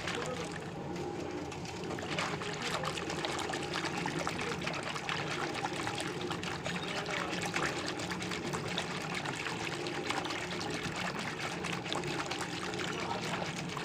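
Water splashing and trickling in a container as a piece of dishwashing soap bar is worked in it to raise foam, with many small splashes throughout.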